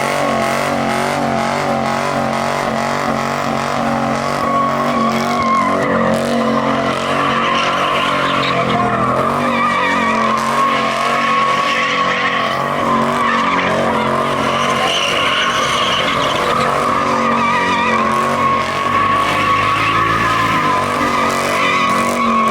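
Car engine held at high revs while its rear tyres squeal without a break, a sustained burnout or donuts. The squeal wavers in pitch.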